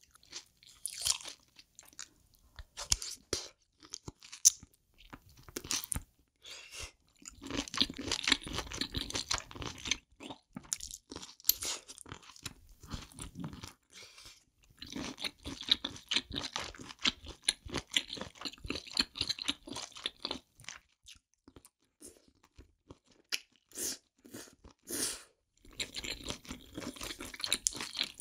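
Close-miked chewing and crunching of mouthfuls of spicy steamed octopus and abalone with bean sprouts: dense runs of wet crunches lasting a few seconds, with short pauses between.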